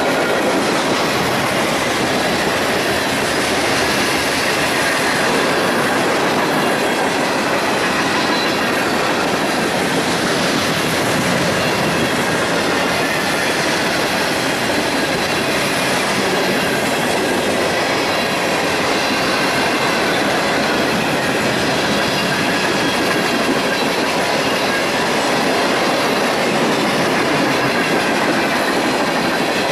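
A freight train's cars rolling past on the rails: a steady, loud rumble of steel wheels with clickety-clack over the rail joints and a faint high wheel squeal.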